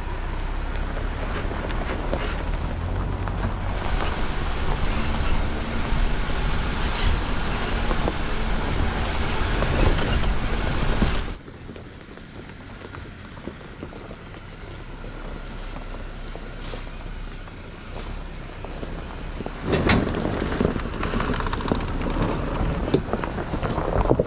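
Jeep Gladiator driving slowly over a rough dirt trail: a steady rumble of the vehicle and tyres on the track, with wind noise. The sound drops suddenly about eleven seconds in and comes back up near twenty seconds.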